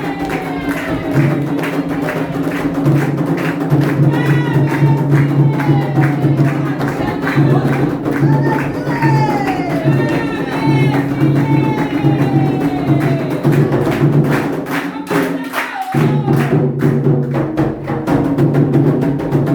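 Candomblé ritual music: atabaque hand drums and percussion playing a steady rhythm under singing voices with long, gliding sung lines. The low drumming drops out for a moment about fifteen seconds in, then resumes.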